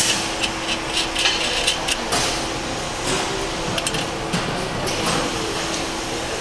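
Small scattered clicks and light knocks of a lock's mounting bolt and nut being handled and fitted by hand on a locker door, over a steady low hum.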